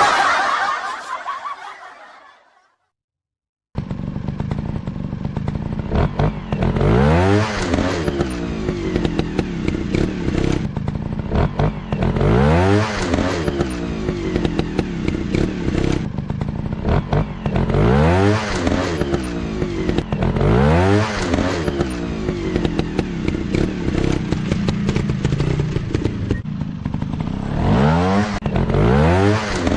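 Off-road trail motorcycle engine running and being revved over and over, its pitch rising and falling every few seconds. The engine sound begins about four seconds in, after a fading sound and a moment of silence.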